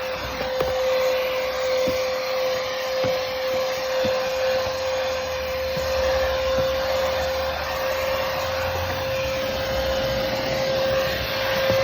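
Stihl SEA 20 cordless handheld vacuum running steadily, with a constant high motor whine over a rushing hiss of air and a few faint clicks.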